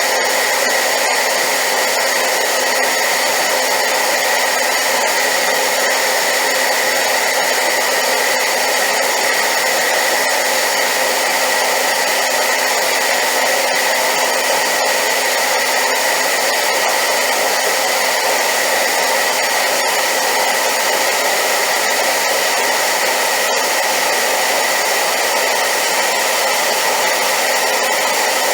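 Hair dryer running steadily on high power: a loud, even rush of air with a steady high-pitched whine from its motor.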